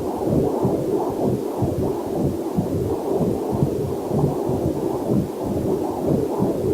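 Heartbeat heard through a fetal Doppler monitor: a steady run of whooshing, throbbing pulses, about two or three a second.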